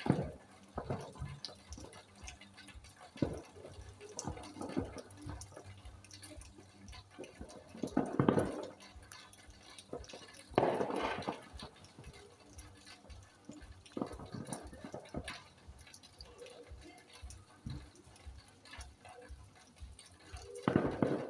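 Rain dripping in irregular drops, with a few louder, muffled bursts of sound about 8 and 11 seconds in.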